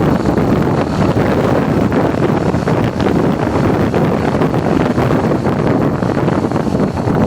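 Loud, steady wind rushing over the microphone of a vehicle on the move, with the vehicle's running noise underneath.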